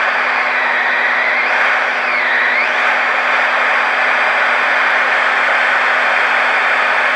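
Vintage Marconi 2004 seven-transistor radio hissing loudly with steady static from its speaker, under a low steady hum. In the first three seconds a faint whistle slides down in pitch and back up, the beat tone of a signal being tuned through.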